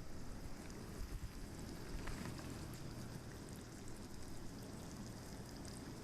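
Soft crackling and sizzling from a campfire and the skillet cooking on it, a steady hiss dotted with small pops.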